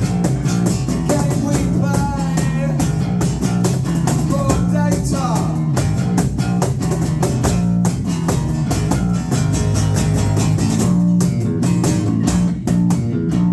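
A rock band playing live: guitars, bass and drum kit in an instrumental passage with a steady beat, no vocals.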